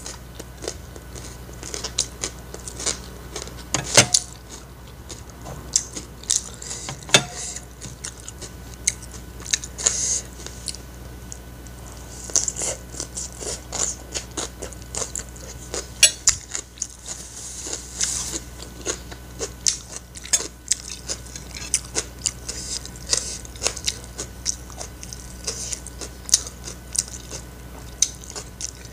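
Close-miked chewing and mouth smacking of someone eating fried rice from a metal spoon, an irregular run of wet clicks and crunches. Now and then a sharper click of the spoon against the plate.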